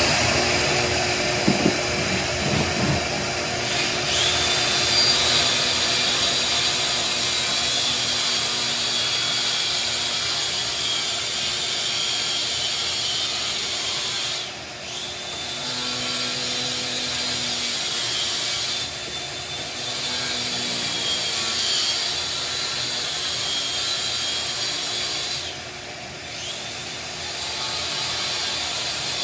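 A power tool running steadily with a high whine while cutting out tile from a shower wall, easing off briefly three times before running on.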